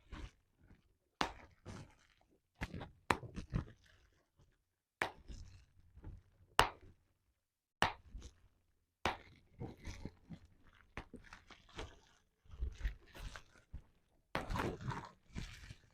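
Bubble wrap being popped by hand: sharp single pops a second or two apart, with the plastic crinkling between them. In the last few seconds the pops come closer together among continuous crinkling.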